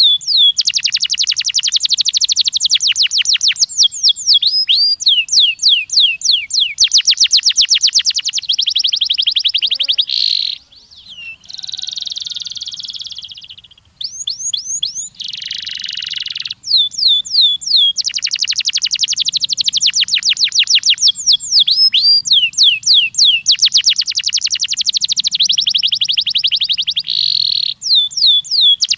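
Canary singing a long, high-pitched song made of fast repeated trills and rolls, with a short buzzy, hissing passage roughly a third of the way through.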